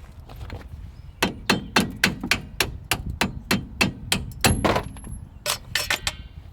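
Hammer blows in a quick series, about three a second, starting about a second in.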